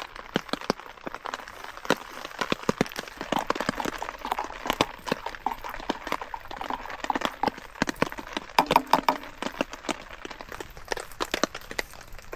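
Wood campfire crackling and popping, dense irregular snaps, with a short hissing squeal from the burning wood about nine seconds in.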